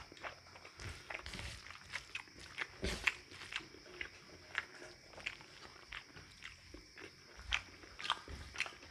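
A person chewing food, with irregular short clicks and crunches of the mouth.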